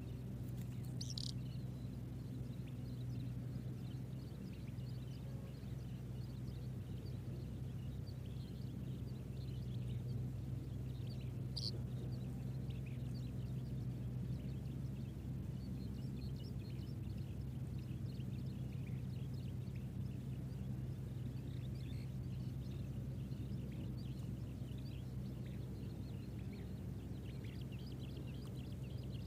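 Faint, scattered high bird chirps over a steady low hum, with two brief sharp calls, about a second in and near twelve seconds.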